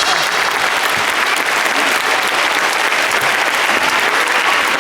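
Audience applauding: a dense, steady wash of clapping.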